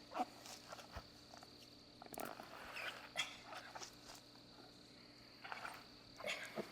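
Faint scattered rustles and soft knocks, like quiet movement, over a steady high-pitched hum.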